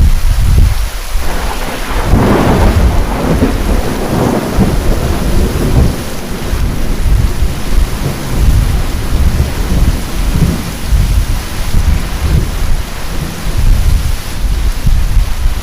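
Heavy rain with loud thunder breaking in at the start. It is loudest and brightest about two to four seconds in, then rolls on as a deep rumble.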